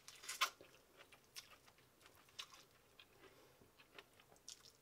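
A person biting into and chewing boiled sweet corn on the cob: a series of short, crisp crunches and wet chewing, the loudest crunch about half a second in.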